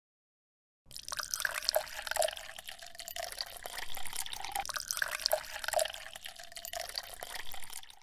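Water running and splashing, starting suddenly about a second in and cutting off abruptly at the end.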